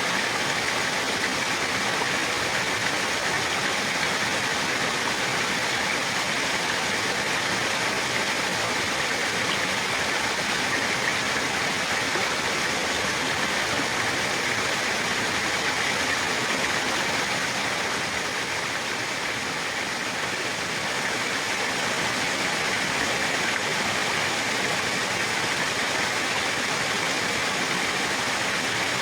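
Running water rushing steadily, an even continuous wash of sound with no breaks.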